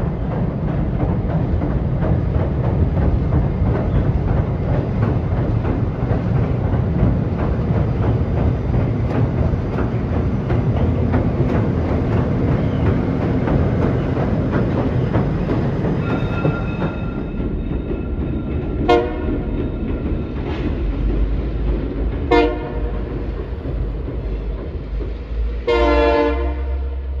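Union Pacific diesel locomotives rolling across a high steel girder bridge: a steady noise of engines and wheels that thins after about sixteen seconds to a low rumble. Near the end come three short pitched calls, the last the longest and loudest.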